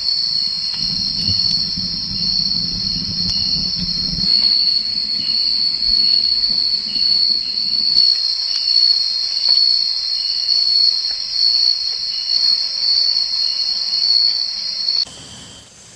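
Steady, high-pitched drone of an insect chorus, with a fainter chirp repeating regularly about every two-thirds of a second. It cuts off abruptly about fifteen seconds in.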